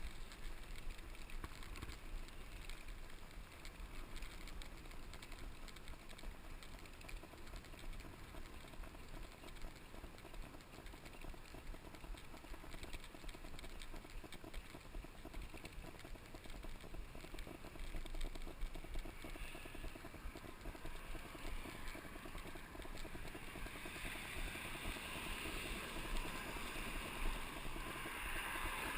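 Mountain bike rolling over a rough dirt trail: tyre noise with a constant patter of small clicks and rattles from the bike. A rushing hiss grows louder over the last few seconds.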